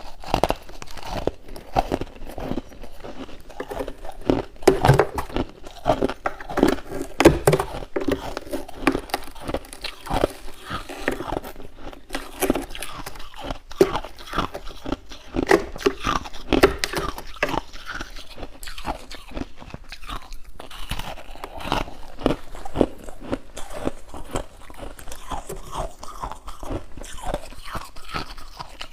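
Someone biting into and chewing crunchy freezer frost, a continuous irregular crackle of crunches, with louder bites about a quarter of the way in and again around the middle.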